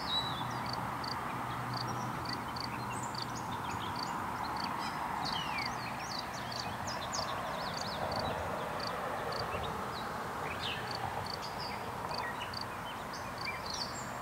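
Birds chirping: short high chirps repeating every half second or so, with a few falling whistles, over a steady background rush and a low hum.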